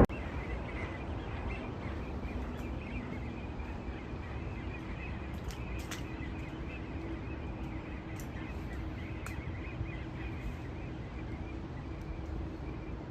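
Faint bird calls chattering over steady outdoor background noise, with a low steady hum underneath and a few small clicks.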